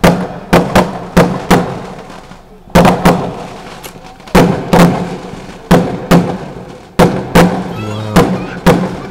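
A rapid string of firework bangs, sharp reports in twos and threes about every second and a half, each echoing away, as from a barrage firing in sequence.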